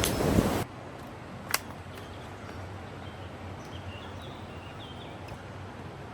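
Wind buffeting the microphone, cut off suddenly about half a second in, leaving a quiet outdoor hush with one sharp click and a few faint, short high chirps.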